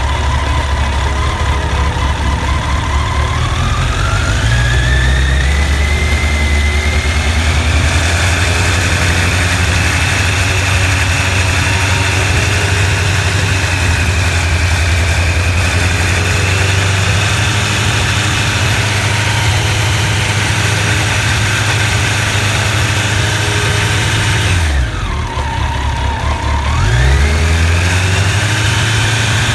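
Honda CBR1100XX Blackbird's inline-four engine running: it rises from idle to higher revs a few seconds in and holds steady, drops back toward idle near the end, then revs up again.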